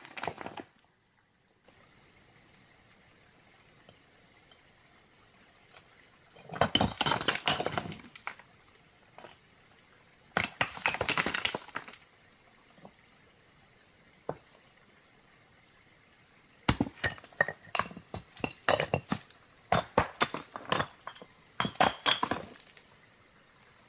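Hard objects clinking and knocking together in three bursts of quick strikes, the last a longer run of separate knocks.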